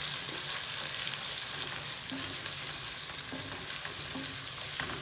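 Onion and garlic sizzling and crackling in hot oil and ghee in a kadai, a steady hiss flecked with small pops.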